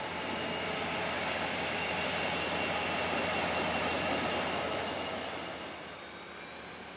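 A passing train: a steady rumble of wheels and running gear with faint high ringing tones, swelling to its loudest midway and then fading away over the last couple of seconds.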